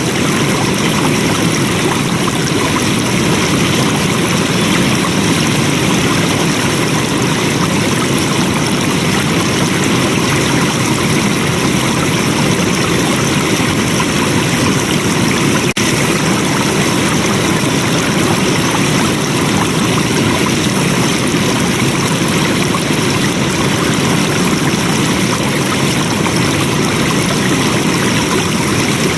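Flowing water, a stream running steadily and evenly without let-up.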